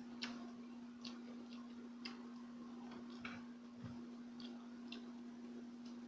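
Faint eating sounds close to the microphone: a handful of soft, irregular clicks and smacks from chewing and mouth noise. A steady low electrical hum runs underneath.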